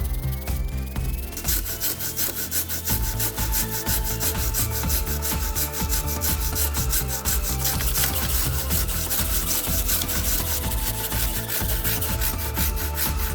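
Quick, regular rasping strokes of an abrasive worked back and forth by hand on a small part, several strokes a second, starting about a second and a half in, over background music.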